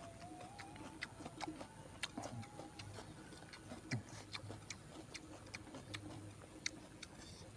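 Close-up eating sounds: a person chewing grilled fish, with scattered soft mouth clicks and lip smacks at an uneven pace.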